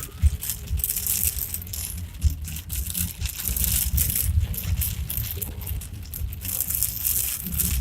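Inside a moving car: loose things in the cabin rattle and clink constantly as the car jolts over a rough road, over a low, uneven road rumble.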